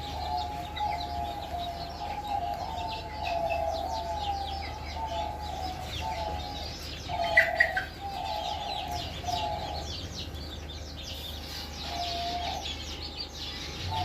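Chickens clucking and calling, a repeated warbling call running through the first ten seconds and returning in short bouts after, with many short high chirps above it and one louder call about halfway through.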